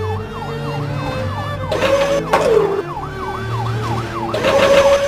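A siren wailing rapidly up and down, about three swings a second. Loud swooping whooshes come in about two seconds in and again near the end, over a low, stepping bass.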